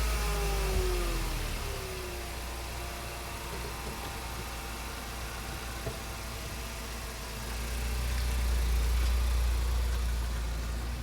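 Engine idling just after starting, its pitch falling over the first two seconds and then holding steady, with a deep rumble that grows louder about eight seconds in.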